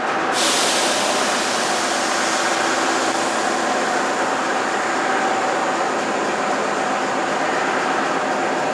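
Moscow Metro retro train of type A cars running on the rails: a loud, steady rolling noise with a faint even hum running through it.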